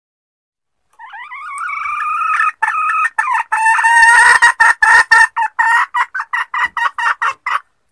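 Junglefowl hen calling: about a second in, one drawn-out call that grows louder, then a run of short clucking notes, roughly four a second and quickening toward the end before stopping. It is the hen's lure call, used to draw wild junglefowl cocks out of hiding.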